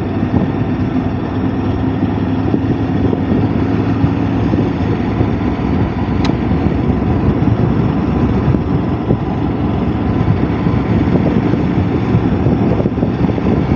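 Motorcycle engine running steadily while riding, mixed with heavy wind and road rush.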